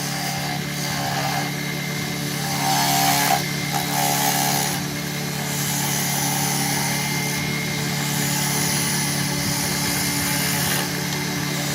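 A power tool's motor running steadily with a constant hum, louder and brighter for a moment about three seconds in.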